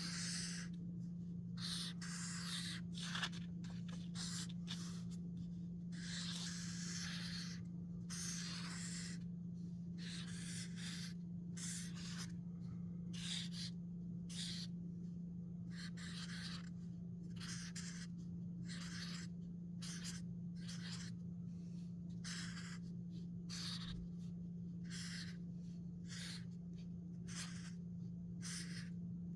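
Drawing strokes scratching on paper, many short strokes in quick irregular succession with a few longer ones, over a steady low hum.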